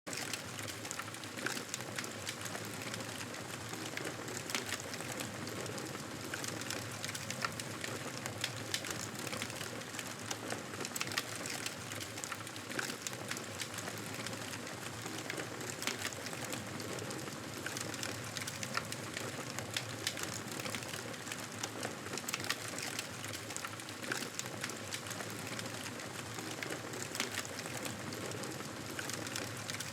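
Wood fire crackling: a steady hiss with frequent small, irregular pops and snaps.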